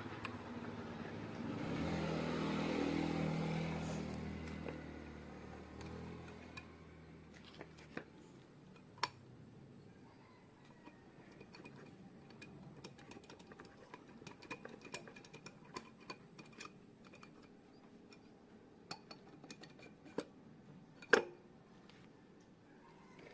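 A motor vehicle passing by, its engine sound swelling and fading over a few seconds. Then scattered small metallic clinks and taps of tools and engine parts being handled, with one sharp knock near the end.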